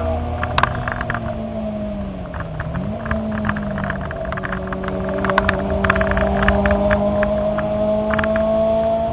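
Track-driven car's engine heard from inside the cabin. The revs fall as the car slows for a corner, dip and jump back up about three seconds in, then climb steadily as it accelerates out. Short rattles and clicks from the cabin are heard throughout.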